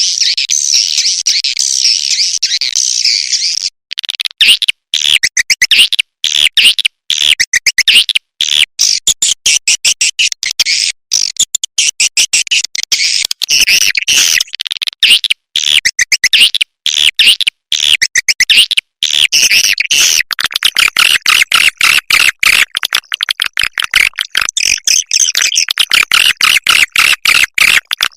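Recorded edible-nest swiftlet calls: a dense, high chittering twitter cut by many brief abrupt dropouts, the kind of lure sound played in swiftlet houses to draw the birds in.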